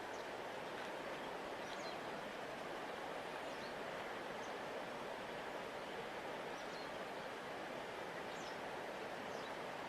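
Steady rush of a large river's flowing water, an even hiss with no change in level. A few faint, short high chirps sound over it now and then.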